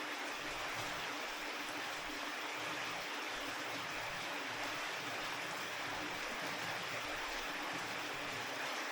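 Steady rain falling, an even hiss with no single drops standing out, over a faint steady low hum.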